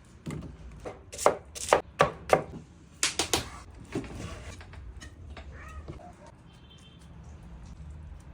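Knife chopping on a cutting board: about ten sharp, uneven chops over the first four seconds, then only faint, softer sounds.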